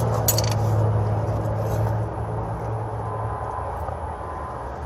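Brazing torch flame hissing steadily on copper pipe, under a low engine hum that fades over the first half.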